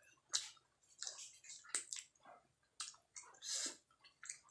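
Wet chewing of a mouthful of food close to the microphone: irregular moist clicks and squelches from the mouth and lips.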